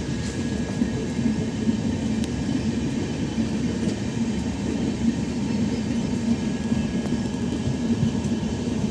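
Passenger train rolling, heard from the open doorway of a coach: a steady rumble of wheels on the rails with a few faint clicks.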